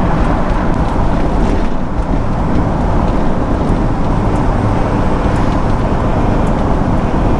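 Car driving on the road: a steady mix of engine, tyre and wind noise with no change in pace.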